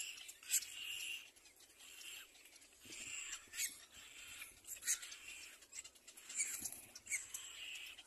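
Repeated short, high-pitched bird calls, about one a second, with sharp clicks scattered among them.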